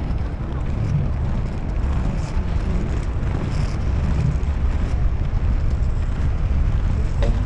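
Steady low rumble of wind buffeting the microphone while inline skating, with a short click near the end.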